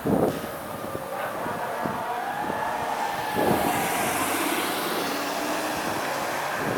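Fire engine responding, its siren wailing with slow rises in pitch over the truck's engine and road noise. A short knock sounds right at the start.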